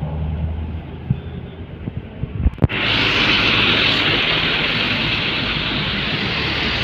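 Heavy road traffic passing close: a low engine drone with a few sharp knocks, then, a little before halfway, a sudden loud, steady rush of noise that holds to the end.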